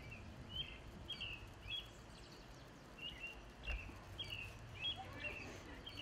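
A bird chirping a run of short, high notes, about one or two a second, over a low steady background rumble.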